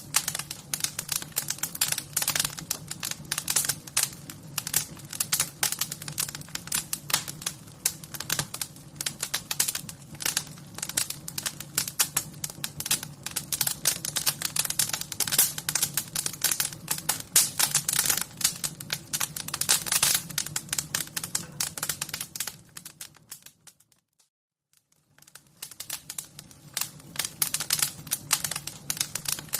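Wood fire crackling: dense, irregular pops and snaps over a steady low hum. About three-quarters of the way through it fades out to silence and fades back in a second or two later.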